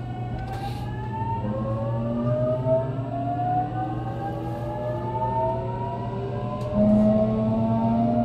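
JR Kyushu 813-0 series EMU (KuMoHa 813-1) inverter and traction motors whining as the train accelerates, several tones rising steadily in pitch over a steady low hum.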